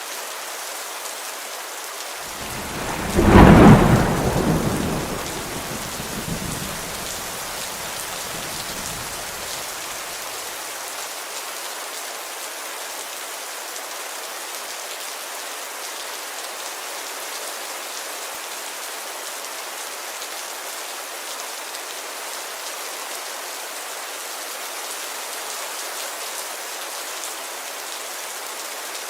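Steady rain pattering on a window, with a loud clap of thunder about three seconds in that rumbles and fades away over the next several seconds.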